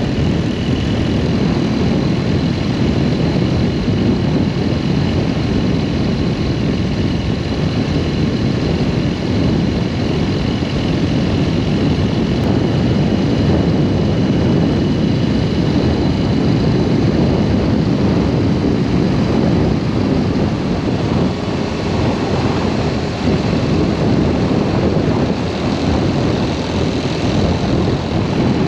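Steady wind rush over the microphone with the drone of a BMW R1200S boxer-twin engine, the motorcycle riding at an even speed.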